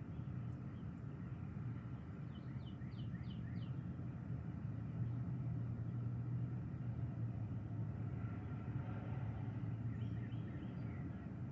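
A low, steady rumble, with a bird giving a quick run of about five short chirps some two and a half seconds in and a few fainter chirps near the end.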